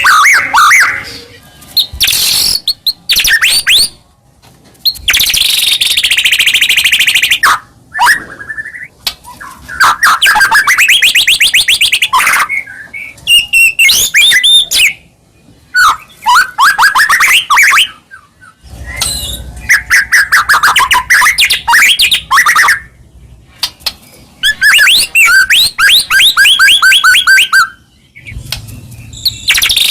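White-rumped shama (murai batu) singing vigorously: loud phrases of fast repeated trilled notes and whistled glides, one after another with short pauses between them.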